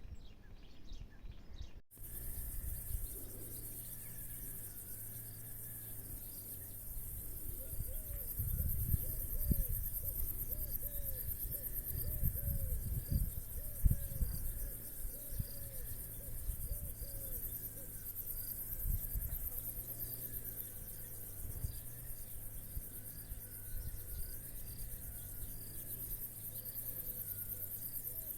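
Crickets chirring in a steady, high-pitched chorus. A quick, repeating lower call sounds over it for the first half, with uneven low rumbles and thumps.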